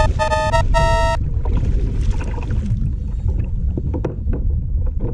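Steady low rumble of wind and water heard from a kayak on open water, with scattered small knocks. A few short musical notes end about a second in.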